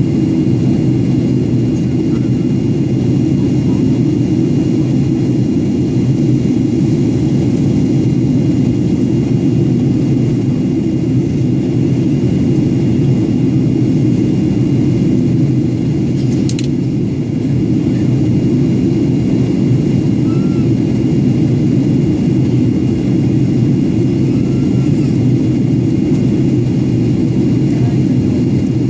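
Steady loud cabin noise of a Boeing 737-800 in flight, its CFM56 jet engines and the airflow heard from inside the cabin as a deep, even roar. There is one brief click about two-thirds of the way through.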